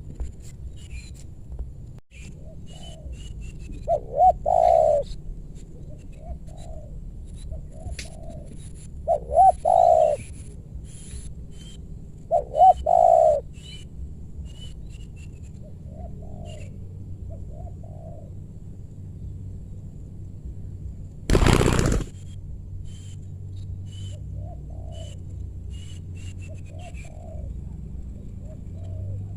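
Spotted doves cooing in repeated low phrases, three of them loud and close, with fainter answering coos in between; small birds chirp faintly in the background. About two-thirds of the way through, a short loud rushing noise cuts across everything for under a second.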